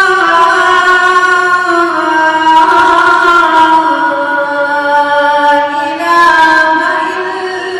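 A boy's voice reciting the Quran in a melodic, drawn-out style, holding long ornamented notes that slide slowly in pitch, with a step up in pitch about six seconds in.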